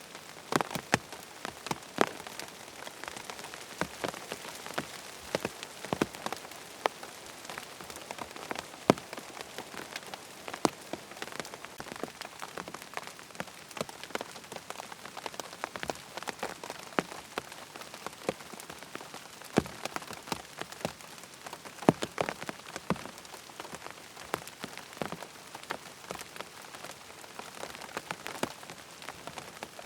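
Steady rain falling on a tent, a constant hiss with many separate drops tapping on the fabric at irregular intervals.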